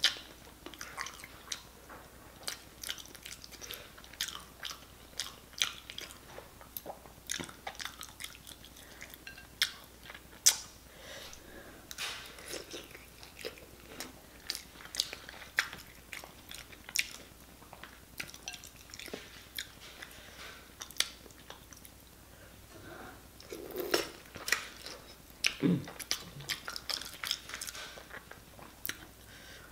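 Close-miked eating sounds: chewing a soft boiled potato coated in seafood-boil sauce, with a steady run of short, wet mouth smacks and clicks.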